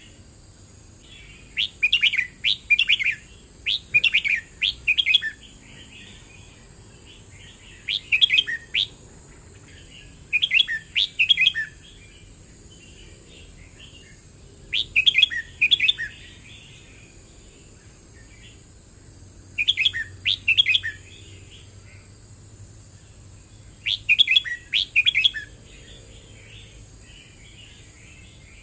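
Red-whiskered bulbul singing: short, bright warbled phrases of about a second each, repeated every few seconds with pauses between.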